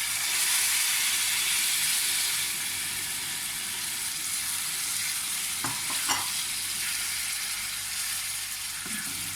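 Onions and garlic frying in oil sizzle loudly as boiled tomato paste is poured into the pan; the sizzle flares at the start and slowly eases. Two light knocks sound about six seconds in.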